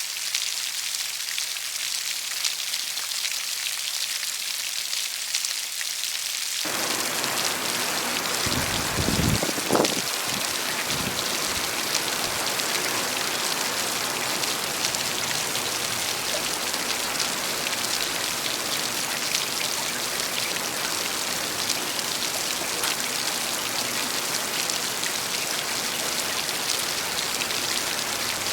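Steady rain falling on leaves, a dense patter of drops that turns fuller and heavier about a quarter of the way in. A brief low rumble rises and fades about a third of the way through.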